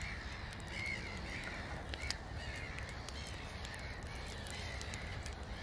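Bird calls repeated about once a second over a steady hiss, with a few scattered sharp crackles.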